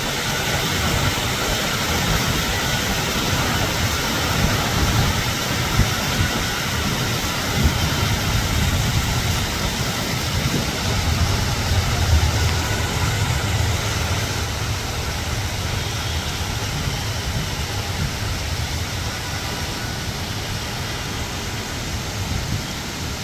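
Heavy rain falling steadily, a dense even hiss, with a low rumble underneath that swells about halfway through and then eases.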